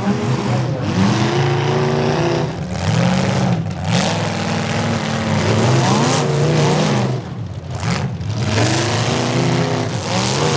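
Several demolition derby cars' engines revving up and down at once over the noise of the arena, the pitch rising and falling repeatedly, broken by two abrupt short drops in sound.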